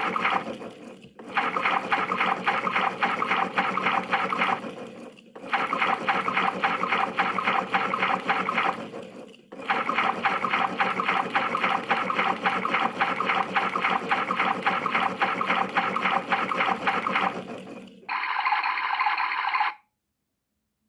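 PlayGo toy washing machine playing its recorded wash sound effect through its small speaker: a looped water-swishing noise that restarts about every four seconds. Near the end a brief, brighter sound follows, then it cuts off.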